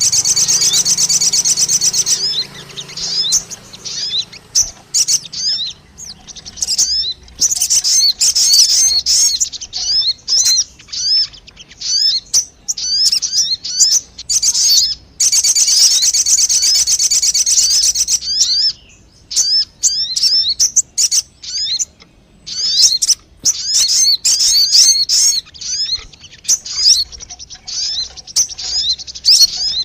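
Sogon bird song used as a lure call: rapid high chirps and trilled phrases, with dense continuous trills in the first two seconds and again about halfway through, and sparser separate notes between.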